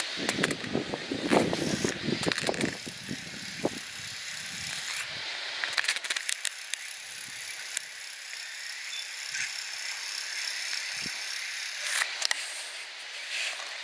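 Outdoor ambience with a steady high-pitched hiss, and rustling and knocking in the first three seconds, then a few scattered clicks.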